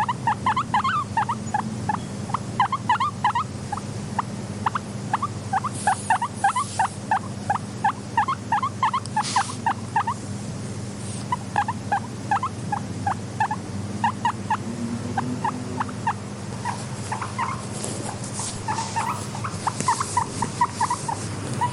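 Guinea pig squeaking in long runs of short, quick calls, several a second with brief pauses, over a steady low hum and a few scattered clicks.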